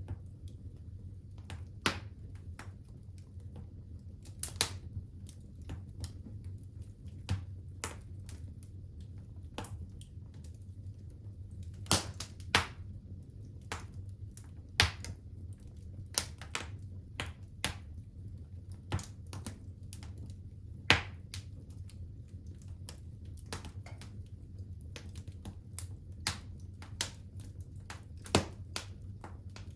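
Fire crackling in a fireplace: irregular sharp pops and snaps, with a few louder ones, over a steady low rumble.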